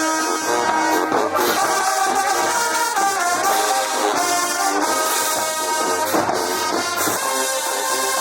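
Brass band music: horns playing held chords that change every second or so, with a few percussion hits.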